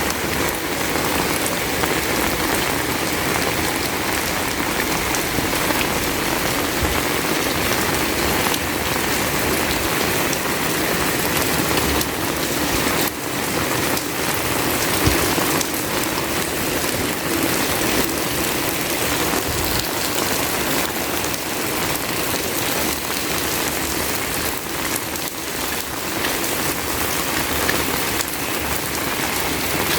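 Heavy rain falling steadily as a dense, even hiss, heard from under an umbrella, with scattered individual drops hitting close by.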